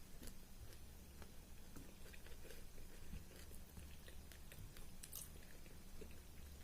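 Close-miked chewing of a mouthful of rice and curry: soft, irregular mouth clicks and smacks.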